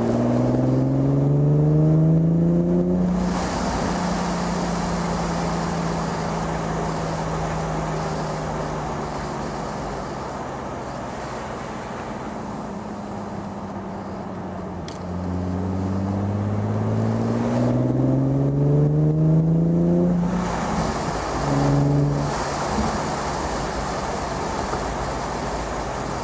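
Infiniti G37's 3.7-litre V6 with a Tanabe Medallion Touring exhaust, heard from inside the cabin while driving. The engine pulls up through the revs with a rising exhaust note at the start, then cruises with a steady drone. A second pull about two-thirds of the way through cuts off suddenly, and after a brief blip the engine settles back under road and tyre noise.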